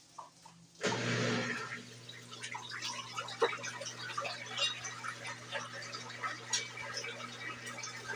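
Brastemp BWG11 washing machine: about a second in, water starts rushing with a steady electrical hum, then carries on splashing and trickling in the drum.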